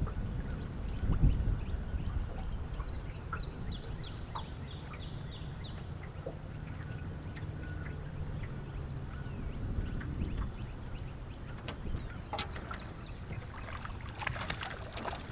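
Low steady rumble of wind and water around a small fishing boat, with scattered light knocks and clicks. A quick run of short high chirps comes about three seconds in.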